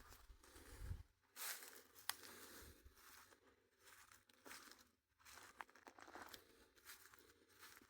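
Faint, irregular rustling and crinkling handling noise with a few sharp clicks, typical of a phone being picked up and moved about near its microphone.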